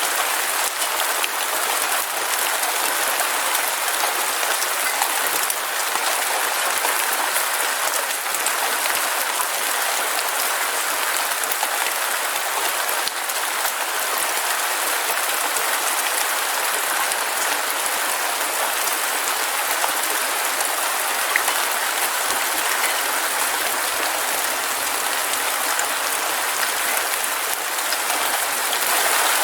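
Heavy rain falling steadily: an even hiss of countless drops, with small ticks of drops striking a surface scattered through it.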